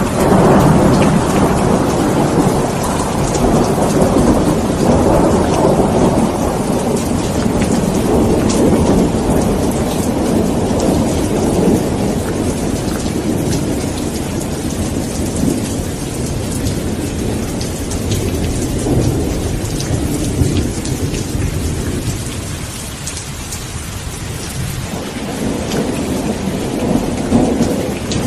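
Steady heavy rain with rolling thunder: a long low rumble swells right at the start and slowly dies away over about twenty seconds, then a fresh rumble builds near the end.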